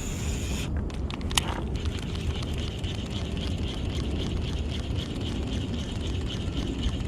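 Fishing reel being wound in, a rapid even ticking whir, after a couple of sharp clicks about a second in. Wind rumbles on the microphone throughout.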